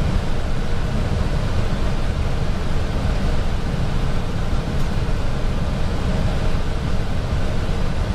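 Steady flight-deck noise of an Airbus A320 on final approach: a continuous rush of airflow with a strong low rumble.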